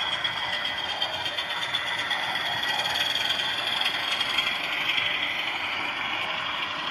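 DCC sound decoder in a model diesel locomotive playing a diesel engine running sound through its small onboard speaker, thin and lacking deep bass. The sound is steady and grows a little louder midway.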